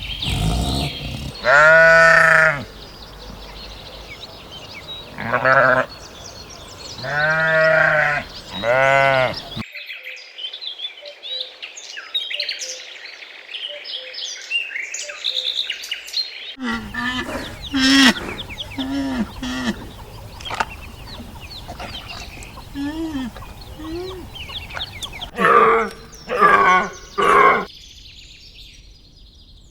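Farm animals bleating: four long, wavering bleats in the first ten seconds. The sound then cuts to small birds chirping, then to more animal calls, with three loud calls near the end.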